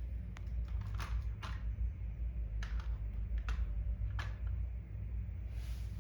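Scattered light clicks and taps, several seconds apart, over a steady low rumble.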